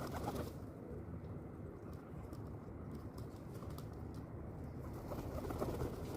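Pigeons cooing, once right at the start and again about five seconds in, over a steady low background noise.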